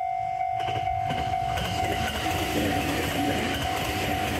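Aoimori Railway electric train passing close: rail and wheel rumble building from about half a second in and staying loud as the cars go by. A steady ringing tone pulsing about twice a second runs underneath throughout.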